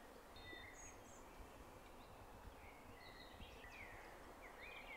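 Near silence with faint birdsong: a few short chirps and quick rising and falling whistles over a low steady background noise.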